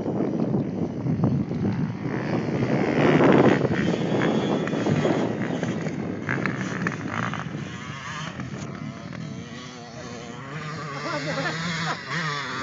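Motocross motorcycle engines revving on the track. They are loudest about three seconds in and then fade, with one engine's pitch rising and falling near the end.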